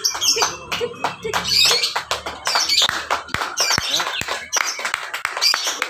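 Several lovebirds chirping and trilling at once in rapid, shrill bursts, with sharp clicks mixed in and people's voices in the background.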